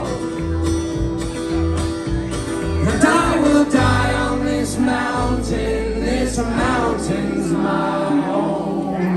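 Live acoustic country band playing the closing bars of a song: guitar and a steady pulse of low bass notes under sung vocal lines. The bass settles onto one long held note in the second half.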